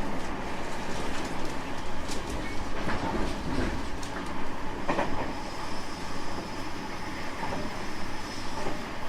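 Running sound heard inside a JR West 225 series 5000-subseries electric train with Toyo IGBT motor control: a steady rumble of wheels on rail, with a few sharp clicks of wheels crossing rail joints.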